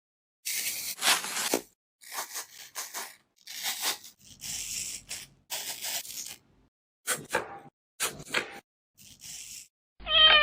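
A string of short, scratchy tearing noises at an irregular pace, about a dozen in all with brief silences between them.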